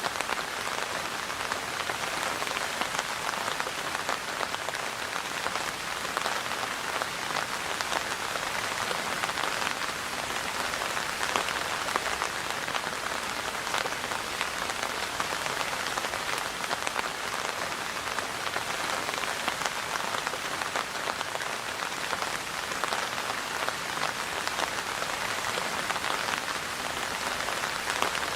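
Steady rain falling on a surface, a dense even patter of many small drops with no letting up.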